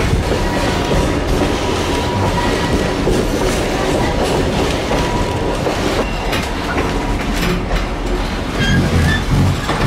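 Passenger train carriages running along the track: a steady rumble and clatter of wheels on rails, with a thin wheel squeal at times, louder about a second in and again near the end.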